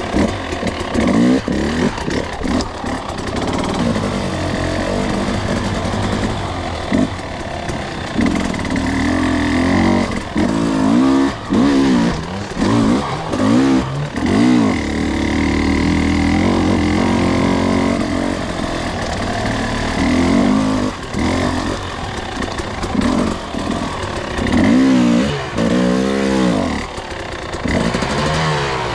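Two-stroke dirt bike engine being ridden, with repeated short throttle blips that rise and fall in pitch between steadier stretches of running.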